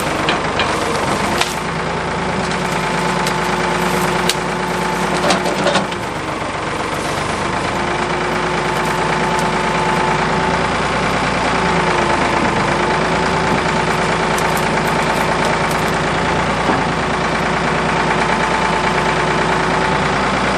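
Ford 555 backhoe's diesel engine working under hydraulic load as the backhoe and thumb lift a large tree trunk. There are several sharp knocks in the first few seconds, and the engine grows louder after about six seconds, then holds steady.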